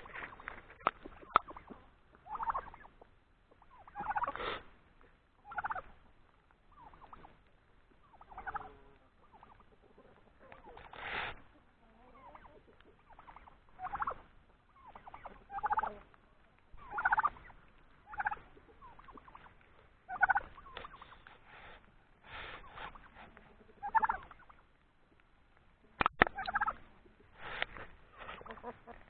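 Domestic turkeys gobbling and calling, one call every second or two, with a few sharp clicks about a second in and again near the end.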